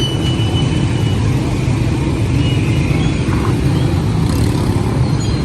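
Steady, loud low rumble of a heavy vehicle, with a few faint high squeals.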